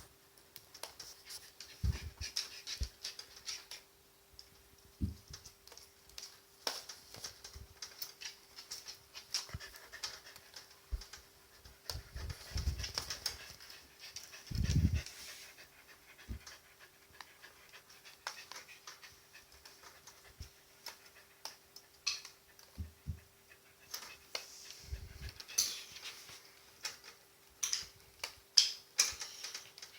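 A corgi panting, with scattered small clicks and taps and a few soft low thumps.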